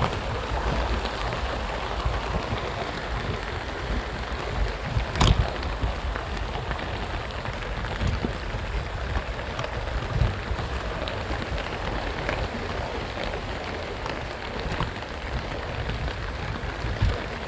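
Steady rain, with a single sharp knock about five seconds in.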